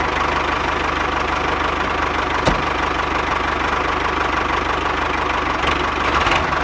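Steady engine-like running sound with a fine, even low chugging, like a small tractor engine idling.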